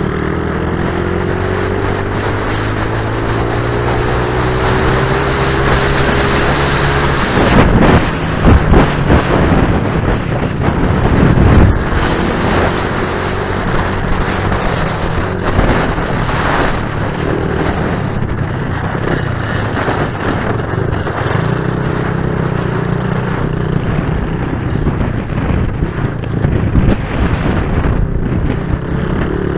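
Pit bike engines running, with steady engine tones throughout and a stretch of loud knocks and rattles from about eight to twelve seconds in.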